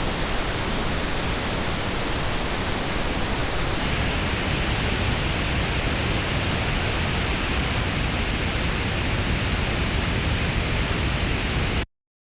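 Pink noise test signal played through earphones into an artificial ear simulator, even and steady. The top treble drops away about four seconds in, and the noise cuts off suddenly near the end.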